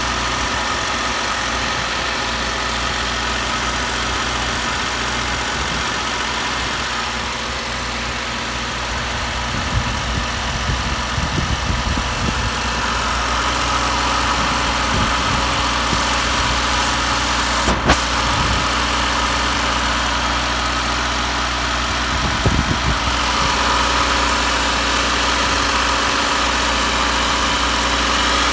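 Subaru WRX engine, a 2017 turbocharged direct-injection flat-four, idling steadily with an abnormal noise that the owner cannot place: either a chirp or the ticking of fuel injectors. A few irregular knocks and one sharp click are heard partway through.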